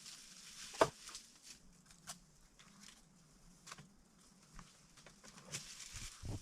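Light rustling with scattered sharp clicks and cracks, the loudest crack about a second in, like dry plant material being handled or stepped on.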